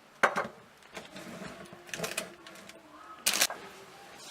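A few short knocks and clatters of household objects being handled, the loudest a little over three seconds in.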